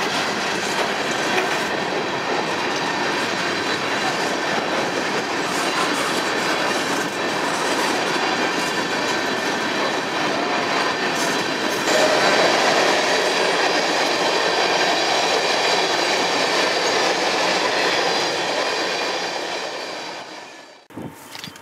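Freight train of CSX open-top hopper cars rolling past close by: a steady rush of steel wheels on rail with a thin, high wheel squeal. It gets louder about halfway through and cuts off abruptly just before the end.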